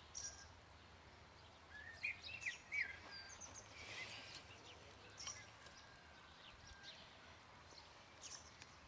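Birds chirping faintly, with scattered short calls and whistles coming a few at a time.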